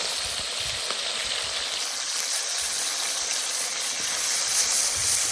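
Thick pieces of fish frying in plenty of hot oil, a steady sizzle that grows a little louder about four seconds in.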